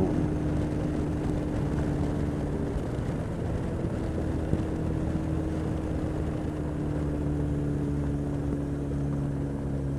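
Honda X4 motorcycle's inline-four engine running at steady cruising revs, with wind rush over the camera. About three seconds in, the engine note briefly eases off, then carries on slightly lower.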